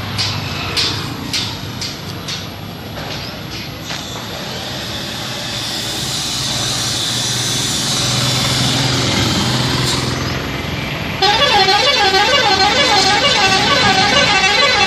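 A few sharp clicks, then a rushing noise with a low hum that swells. About eleven seconds in, a loud warbling horn starts, its pitch wavering up and down a few times a second.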